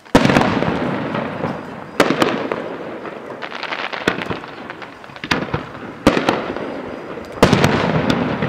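Fireworks display: shells bursting one after another, roughly every one to two seconds, each sharp bang followed by a crackling tail that fades away.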